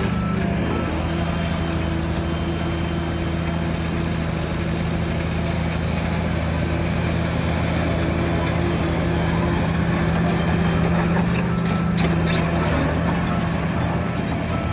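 Heavy diesel engine of earthmoving machinery running at a steady pitch, with a few short metallic clicks about three-quarters of the way through.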